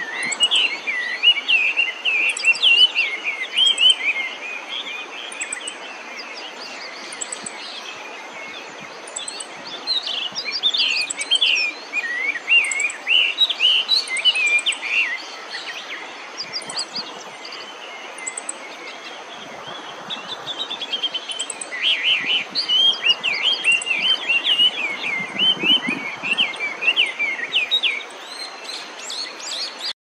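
Wild birds singing: dense runs of quick, chattering, warbling phrases that come in bursts with quieter gaps, over short high repeated notes and a faint steady high tone.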